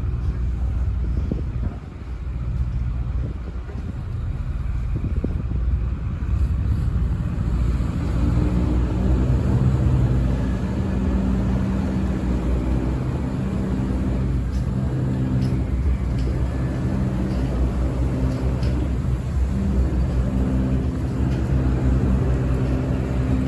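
A boat's engine running with a steady low rumble, growing louder about eight seconds in.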